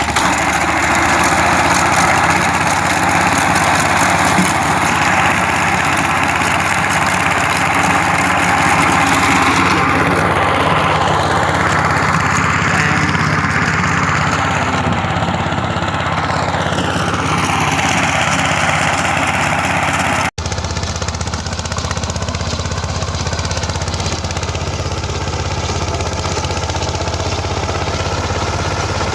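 Engine of a DK Champion 16.5 HP mini tractor running, with a steady low hum; for a stretch in the middle its pitch wavers up and down. The sound drops out for an instant about two-thirds of the way in and then carries on more evenly.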